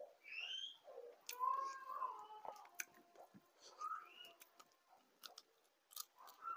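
A person eating soaked water rice by hand: wet chewing and smacking mouth sounds with small clicks. Several short high-pitched animal calls that rise and fall are heard behind it, the loudest about one and a half seconds in.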